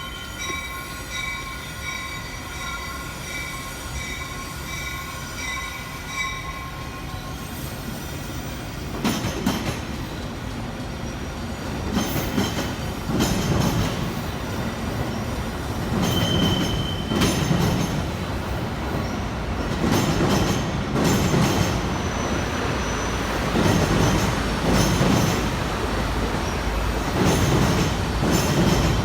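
Train wheels squealing with steady high tones for the first several seconds. Then a rumble with a repeated clatter of wheels over the rails takes over and grows louder.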